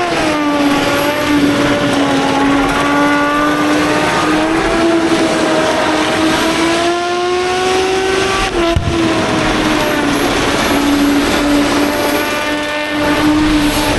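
A car engine held at high revs during a burnout, with a haze of tyre noise beneath it. The engine note drops twice, near the start and about nine seconds in, and climbs slowly back each time.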